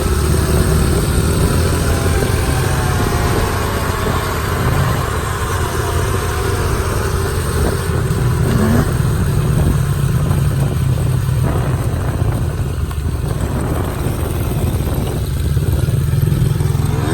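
Dirt bike engines running at a steady riding pace as two bikes ride together, the engine note wavering only slightly.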